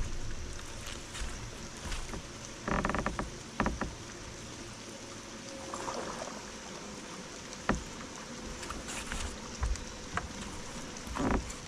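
Steady wind and water noise aboard a fishing boat with a faint steady hum, a short rattle about three seconds in, and a few scattered knocks and clicks.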